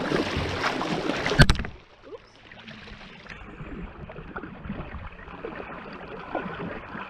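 Kayak paddles splashing and churning the water, with a single sharp knock about a second and a half in. The sound then drops suddenly to much quieter water movement.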